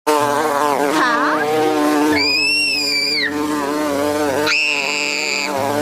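A bee buzzing for about two seconds, then two high-pitched wailing cries of about a second each, over a steady low drone.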